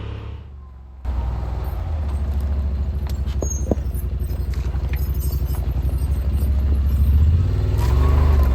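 Yamaha Wolverine RMAX side-by-side's engine running steadily as the machine crawls along a rough trail, with a few light knocks and rattles. The engine sound jumps louder about a second in.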